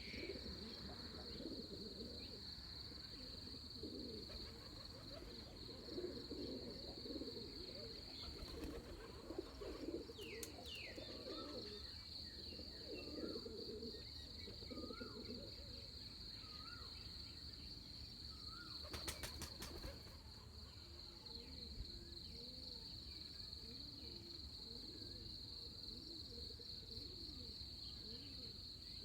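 Faint dawn chorus: a steady high insect trill throughout, doves cooing low and repeatedly, and another bird giving short repeated chirps in the middle, with a couple of brief clicks.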